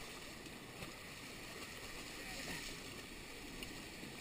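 Steady rush of wind and water aboard a Nacra 5.2 sailing catamaran under way, with no distinct knocks or tones.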